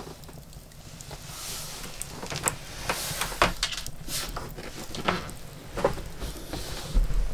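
Firewood fire burning with a soft hiss and irregular crackles and pops from the logs, a few of them sharper than the rest.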